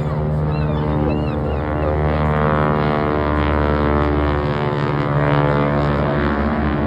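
Boeing Stearman biplane's radial engine and propeller running with a steady drone of many even tones during a wingwalking display flight; the deepest part of the sound thins out briefly about two thirds of the way in.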